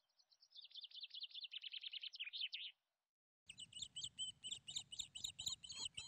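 Birds chirping in two fast runs of high chirps: the first slides slightly down in pitch, and after a short break a second run of sharper chirps follows.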